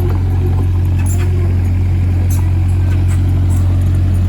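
Excavator's diesel engine running steadily under work, a constant low drone with a few faint clicks and knocks over it.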